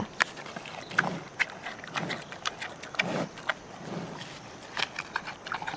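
Giant panda sounds: irregular sharp clicks and snaps with a few short, low calls in between.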